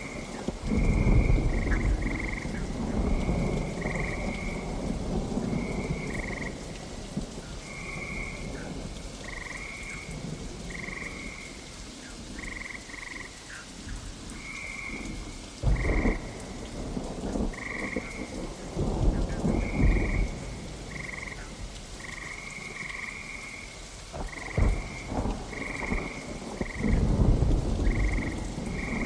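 Steady rain with rolls of thunder, rumbling swells rising about a second in, twice around the middle and again near the end. Short high calls repeat throughout over the rain.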